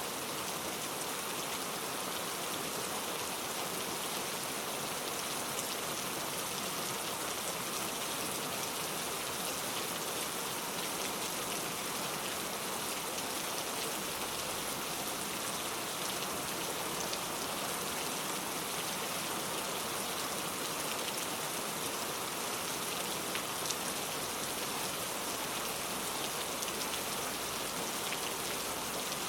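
Steady rain without thunder, an even hiss dotted with fine drop ticks.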